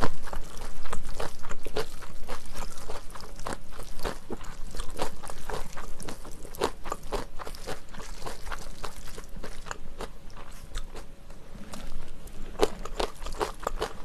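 A person chewing a mouthful of jajangmyeon topped with chopped raw green Cheongyang chili peppers, close to the microphone, with many quick crisp crunches.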